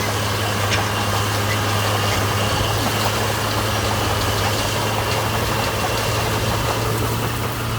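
Diesel engine of a heavy earthmoving machine running steadily, with a low, even hum.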